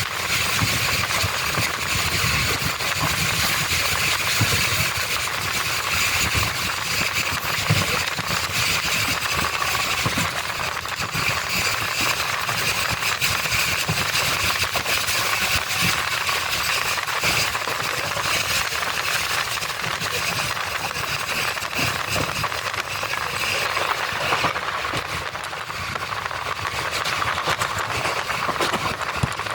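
LHB passenger coach running along the track: a steady rumble of wheels on rail with frequent short low knocks and an even hiss of rushing air.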